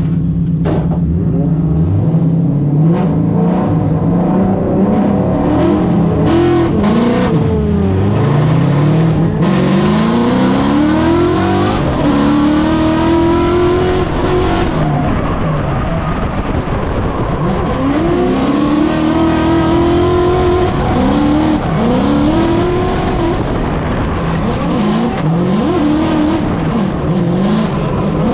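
Drift car engine at high revs, its pitch climbing and dropping over and over every second or two as the throttle is worked through a drift run.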